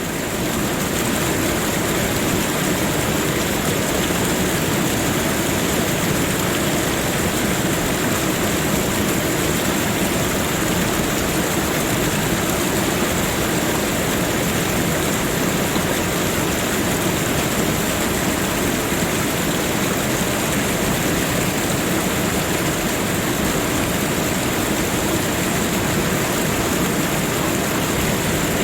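Steady rushing water, an even unbroken hiss with no pauses, rising to full level within the first second.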